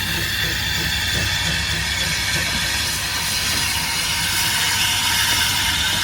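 Steam train hauled by the saddle tank locomotive 'Trojan' 1340, running with a steady hiss over a low rumble.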